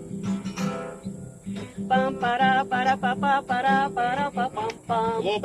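Acoustic guitar accompaniment with a woman singing a lively wordless 'pam-para-pa' refrain, which comes in about two seconds in.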